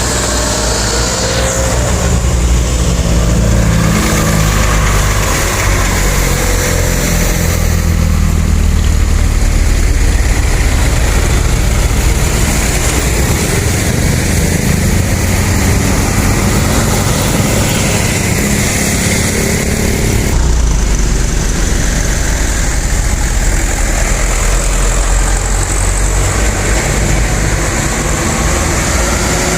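A motor-vehicle engine running steadily with a low rumble, its sound changing abruptly about 20 seconds in.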